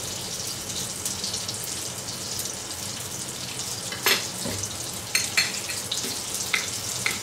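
Schnitzels sizzling steadily as they fry in clarified butter in a pan. A few sharp clicks and knocks come about four and five seconds in.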